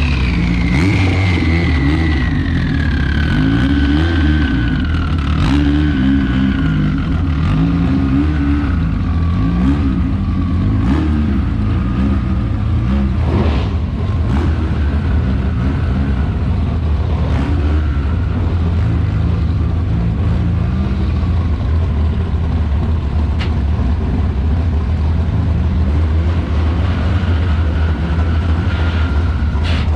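Turbocharged Dodge Neon SRT-4 engine running at low revs, with a high whine that slowly falls in pitch over the first ten seconds or so and then holds. A few sharp clicks come through over the engine.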